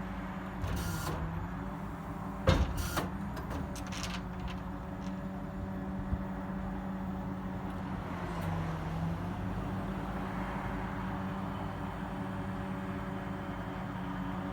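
The bucket truck's V10 gasoline engine running steadily, its tone dipping briefly twice. A sharp knock and a few clicks come about two and a half to four and a half seconds in.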